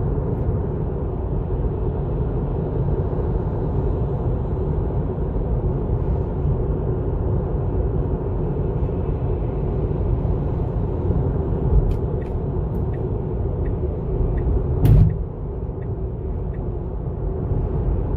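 Steady low road and tyre rumble of a moving car, with a few faint ticks and then one loud thump about fifteen seconds in, after which the rumble is a little quieter.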